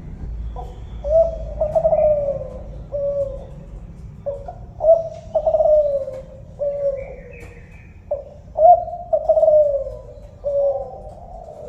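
Kelantan-strain spotted dove (tekukur) cooing: three repeated song phrases, each a short run of falling coos.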